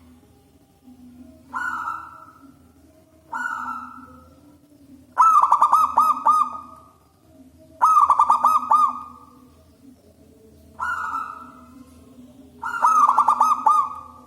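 Zebra dove (perkutut) cooing: six loud calls a couple of seconds apart, three of them carrying a fast rippling trill.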